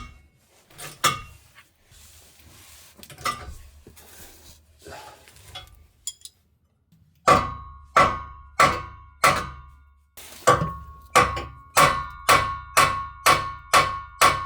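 A series of sharp metallic knocks, each ringing briefly. They come scattered at first, then from about halfway through fall into a steady beat of about two a second.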